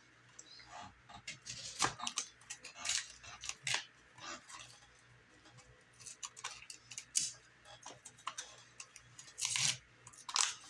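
Irregular clicks, taps and rustling scrapes of hands handling a firework cake and its packaging, with a few louder knocks.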